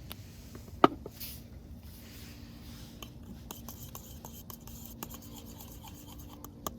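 Utensils and objects being handled: a sharp knock about a second in, then light scraping and small clicks, with a faint steady hum from about two seconds in and another knock near the end.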